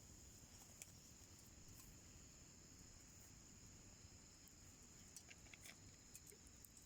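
Faint, steady, high-pitched insect chirring, with a few small crackles from a wood fire burning down in a homemade wood stove.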